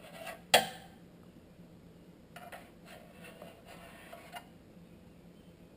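Small hard parts being handled: one sharp click about half a second in, then light scraping and clicking for about two seconds near the middle.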